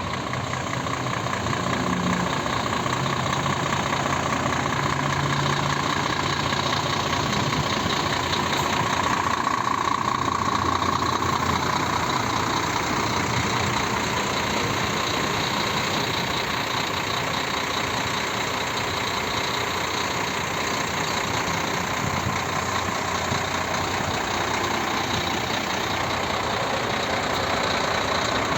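Scania R 440 truck's 13-litre inline-six diesel idling steadily.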